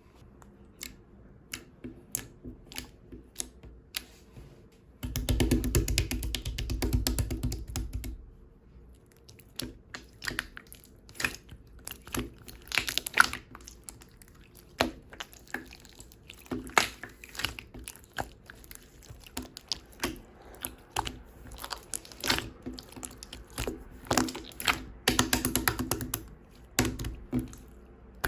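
Hands working a mint slime: squishing, poking and pressing it, with a run of sticky clicks and small crackling pops. About five seconds in comes a denser, louder squishing that lasts about three seconds.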